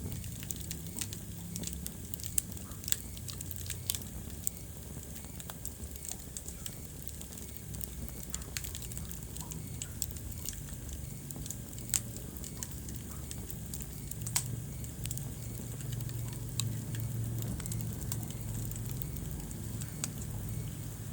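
Wood fire crackling in a fireplace: irregular sharp pops and snaps, a few louder than the rest, over a steady low rumble of the burning logs.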